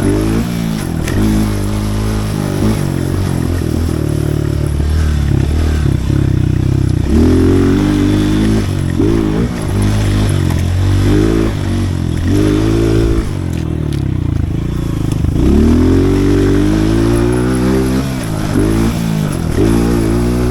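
Pit bike's small single-cylinder engine under a rider on a dirt track, revving up and dropping back over and over as it is throttled through the jumps and turns and shifted between second and third gear.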